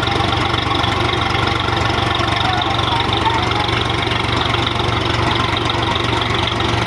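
Tractor diesel engine running steadily at a constant pace.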